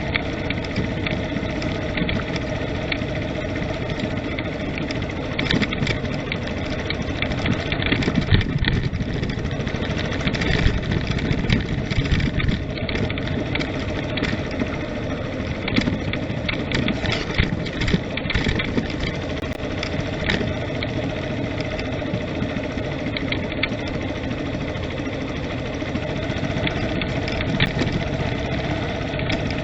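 A vehicle running steadily over a forest road: a constant engine hum and road rumble, with a few sharper knocks scattered through it.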